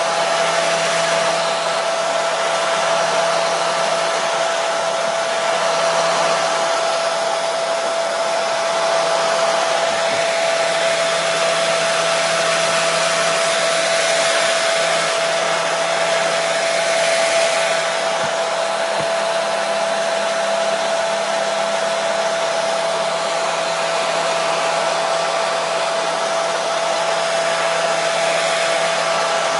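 Hair dryer running continuously: a steady airflow rush with a constant motor whine, unchanging throughout, played as white noise to soothe and settle babies.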